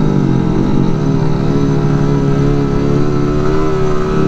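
Small-displacement mini bike motorcycle engine running close by, its revs falling in the first second and then holding steady.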